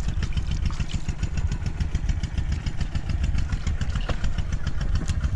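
A small engine running steadily at an even speed, with a rapid, regular beat and a strong low rumble.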